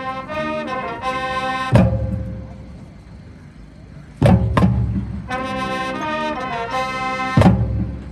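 Marching band brass playing sustained chords that end on a loud hit with drums. This happens twice, with two sharp accented hits between the chords.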